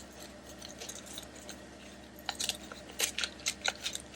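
Paper craft pieces being handled on a work surface to test whether freshly glued paper has set. Faint rustling at first, then from about two seconds in a run of small sharp taps and crinkly clicks.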